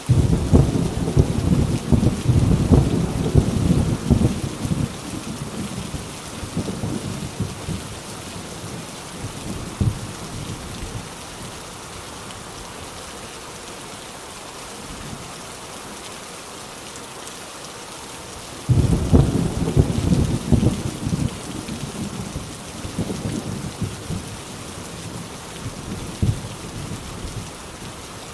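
Heavy rain on an old rusty tin roof, a steady hiss, with two peals of thunder: one cracks at the very start and rumbles away over several seconds, and another breaks about two-thirds of the way through and rumbles off the same way.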